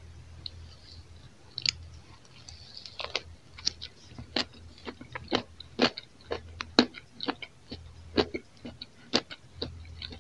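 Close-miked chewing of a soft kaiser-roll sandwich filled with cream cheese, cucumber and olives: a string of sharp, irregular mouth clicks and smacks, about two a second, starting a second and a half in.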